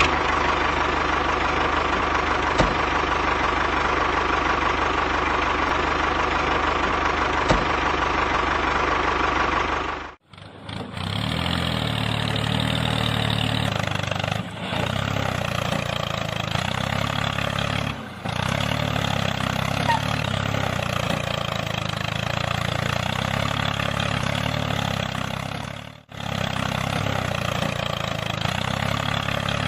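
A motor running steadily. About ten seconds in it cuts out briefly and comes back lower and more throbbing, then drops out briefly three more times.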